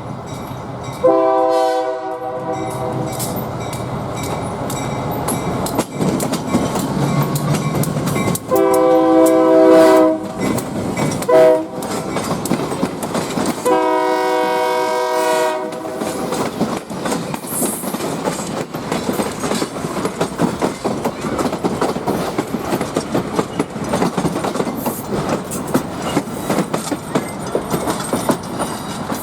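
Morristown & Erie GP15-1 diesel locomotive's air horn sounding the grade-crossing signal, long, long, short, long, as the train approaches and passes. After the last long blast the locomotive's engine and the cars' wheels running over rail joints fill the rest, with rapid clicking.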